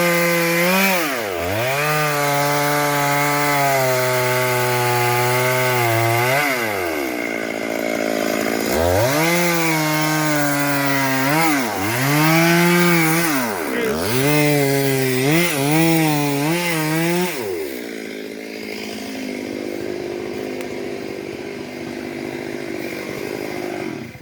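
Two-stroke chainsaw cutting into the trunk of a silk cotton tree, running at high revs with repeated dips in pitch as it bogs in the cut or the throttle eases, each time climbing back. The engine note drops out after about seventeen seconds, leaving a steady rushing noise.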